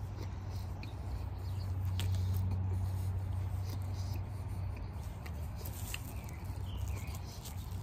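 Chewing, with small wet clicks and soft rustles as a large burrito is handled and picked apart, over a steady low background rumble.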